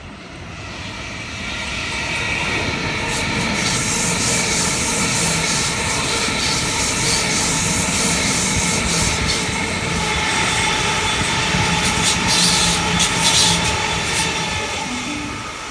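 Electric double-deck suburban train passing along a station platform: wheels rolling on the rails with a steady motor whine and scattered clicks. It builds over the first few seconds and eases as the last cars go by near the end.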